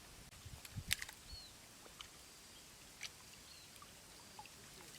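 A few faint, scattered splashes and drips of water. The sharpest comes about a second in and another about three seconds in.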